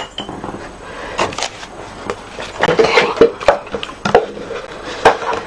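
Light taps, clicks and paper rustles of card and craft tools being handled and set down on a tabletop, with a few small knocks spread through.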